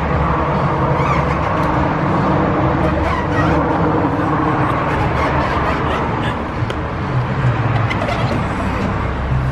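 Honda Gold Wing motorcycle riding at road speed: steady wind rush over the microphone mixed with engine and tyre noise.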